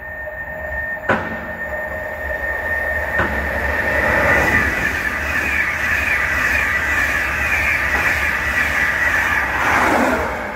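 A train passing through on the East Coast Main Line: a sharp knock about a second in, then a steady rush of wheels on rail with a high whine that builds and falls away near the end.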